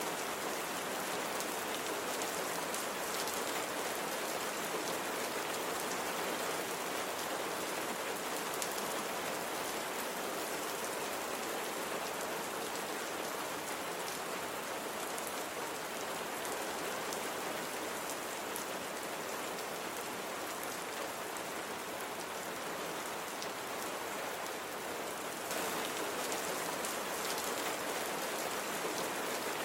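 Steady rain falling on a surface, an even hiss with fine drop ticks, growing slightly louder about 25 seconds in.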